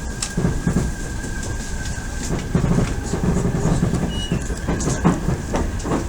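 Odakyu 1000 series electric train heard from inside the car while running: a steady rumble with wheels knocking over rail joints, and a steady thin high tone.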